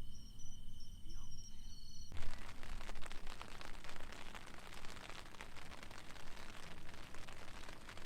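Crickets chirping with steady high trills, abruptly replaced about two seconds in by a dense, steady crackling hiss full of tiny pops.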